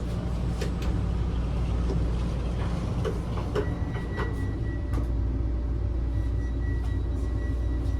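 Steady low rumble of a KTX-Cheongryong high-speed train running, heard inside the passenger car, with scattered light clicks and knocks. A faint steady high tone joins about halfway through.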